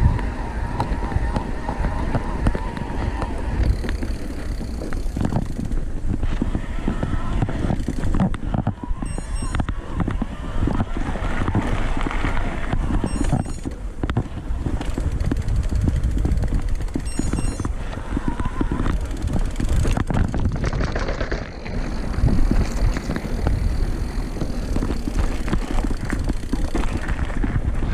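Mountain bike being ridden over a rough forest trail: constant wind buffeting on the microphone, with a steady clatter of knocks and rattles from the bike going over bumps.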